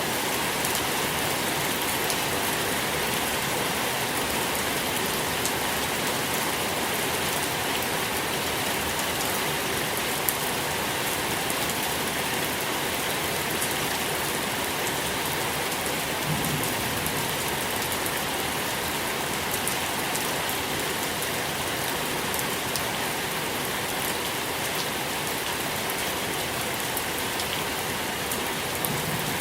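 Steady rain falling, a continuous hiss with many small drop ticks spattering on a surface.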